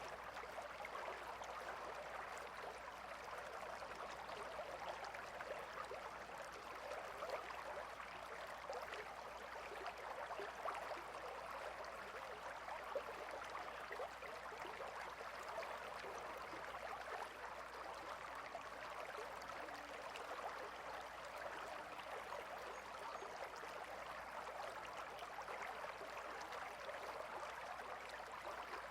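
Gentle river flowing steadily, a constant light babble of water that stays even throughout.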